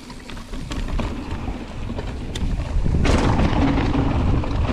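Wind buffeting a GoPro's microphone, with the rumble and rattle of a mountain bike rolling down a dirt trail. It gets louder from about three seconds in as the bike picks up speed.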